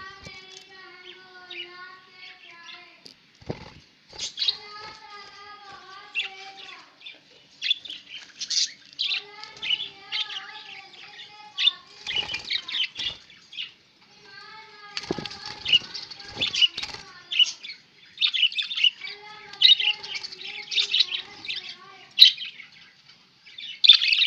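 A flock of budgerigars chattering and chirping in quick, high twittering bursts. A few brief flurries of wing flapping come through about three seconds in and again around the middle.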